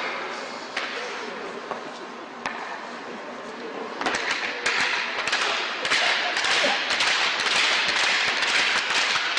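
Hockey arena crowd chatter with scattered sharp taps. The crowd noise swells and grows louder about four seconds in.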